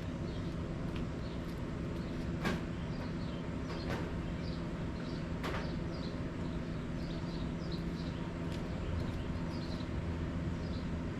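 A steady low mechanical hum throughout, with two sharp knocks about three seconds apart and many faint, short, high chirps.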